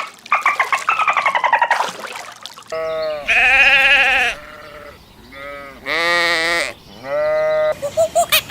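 Bleating livestock: several long, wavering bleats, the first and longest starting about three seconds in, with shorter ones following. Before them, a quick run of pulsing calls from another animal.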